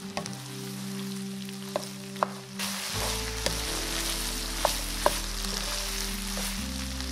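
Ground pork and diced potato sizzling in a nonstick pan while being stirred with a wooden spatula, with a few sharp clicks of the spatula against the pan. The sizzle gets louder about two and a half seconds in.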